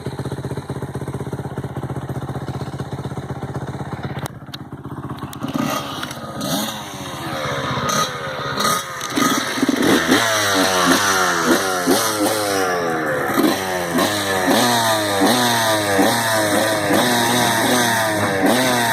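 Dirt bike engine idling steadily for about four seconds. From about five seconds in it revs again and again, its pitch climbing over and over in quick repeated rises and getting louder.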